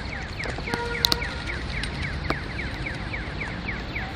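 Pedestrian crossing signal chirping: a rapid, evenly spaced series of short falling chirps, about three to four a second, which signals that it is safe to walk.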